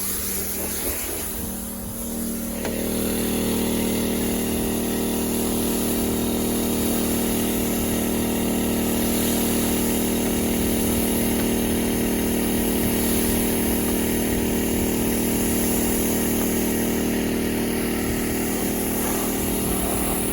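Gas-engine pressure washer running steadily during a rinse, its engine note stepping up louder and higher about two and a half seconds in, then holding.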